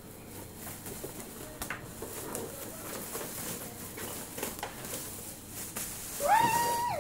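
Faint rustling and light knocks of handling, then about six seconds in a single high, drawn-out voice sound: a young child's squeal.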